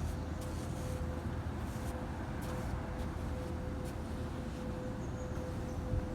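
Steady low outdoor rumble with a faint, steady hum.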